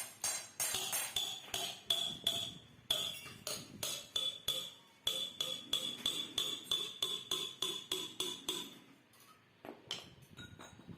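Hammer strikes on the steel of a motorcycle exhaust muffler being reworked, about three blows a second, each leaving a high metallic ring. The hammering stops about nine seconds in, followed by a couple of lighter knocks.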